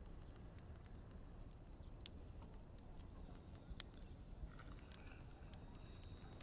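Near silence: faint low background hum with a few scattered soft clicks.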